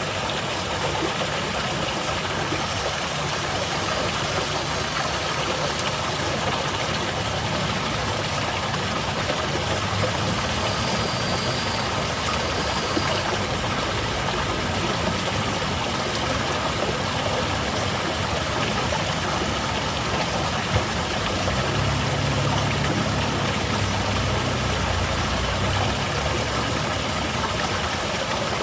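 Small garden waterfall: a steady, unbroken rush of falling and splashing water. A faint low hum joins it for a few seconds in the later part.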